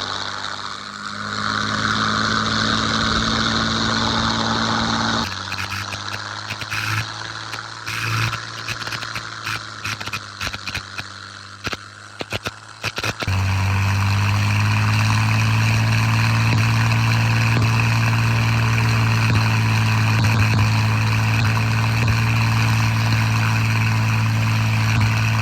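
P-51 Mustang's Merlin V-12 engine running steadily. About five seconds in the sound changes abruptly to a quieter, uneven stretch, and from about thirteen seconds in the engine is steady and louder.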